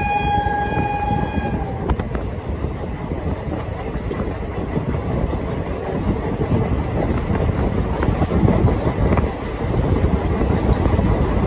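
Train horn sounding one held note that stops about two seconds in, over the steady rumble and rattle of a moving passenger train heard from an open carriage door.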